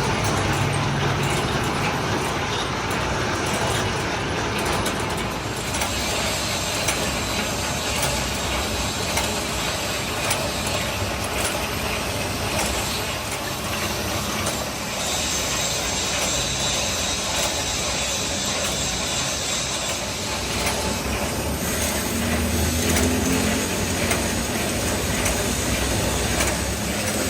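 Metalworking machinery running steadily in a workshop, with scattered clicks and a faint high whine that comes and goes.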